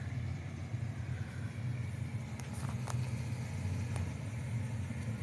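Classic cars driving slowly past with a steady, low engine and exhaust rumble.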